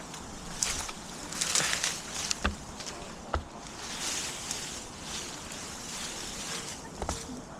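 Leafy branches rustling in swells, with a few sharp clicks and knocks from the wood and rigging.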